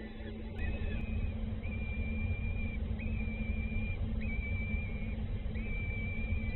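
A bird calling: a series of five flat, drawn-out whistled notes, each just under to just over a second long and following one another about every second. A steady low rumble with a faint hum runs underneath.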